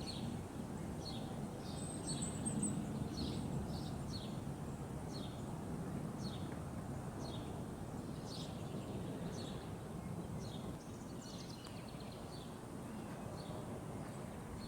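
A small bird chirps over and over in short, high notes that slide downward, about one a second. Under it runs a steady low rumble of outdoor background noise that eases slightly toward the end.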